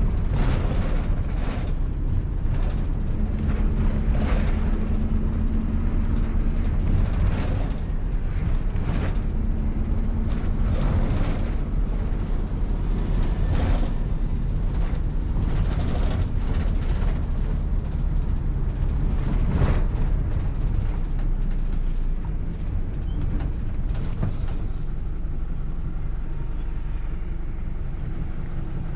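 City bus running, heard from inside the cabin: a steady engine and road rumble with repeated knocks and rattles from the body. An engine tone comes and goes, and the rumble eases a little in the last several seconds.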